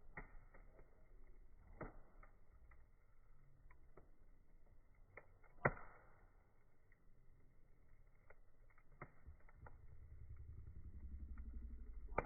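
Wood fire crackling: scattered sharp pops and snaps, one much louder pop about halfway through. A low rumble builds near the end.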